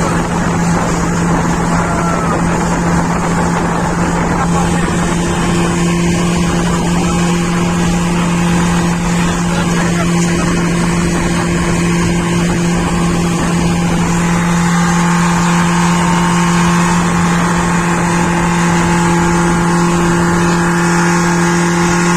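Motorboat engine running steadily at constant speed: a steady low hum, with a second, higher steady tone coming in about four seconds in.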